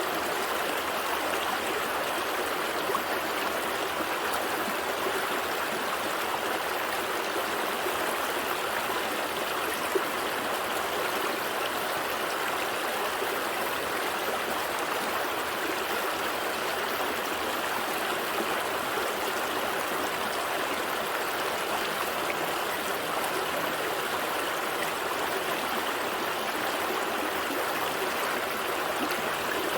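A gentle stream flowing steadily, water running and gurgling over rocks with no break.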